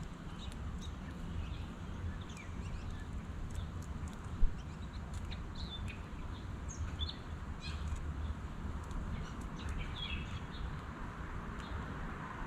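Wild birds chirping, short high chirps scattered irregularly over a steady low rumble of outdoor background noise. A single sharp knock about four and a half seconds in.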